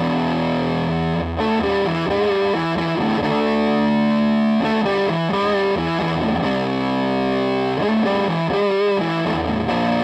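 Electric guitar played with heavy distortion from an effects pedal, a run of sustained notes and chords with a thick, fuzz-like tone.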